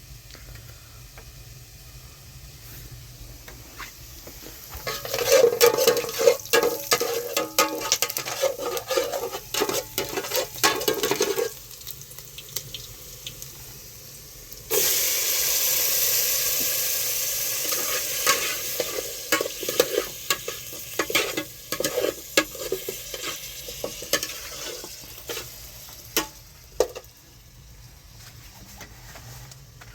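Food frying in a pan, with a utensil stirring and clicking against it. About halfway a loud sizzle starts suddenly and slowly fades while the stirring goes on.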